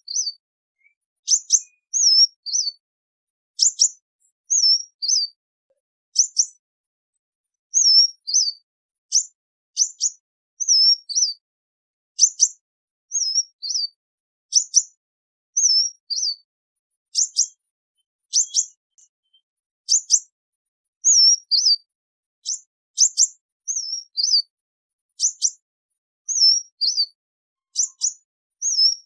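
Sunbird giving its flock call: short, thin, high notes that dip in pitch. They come in quick pairs and threes about once a second, repeated over and over.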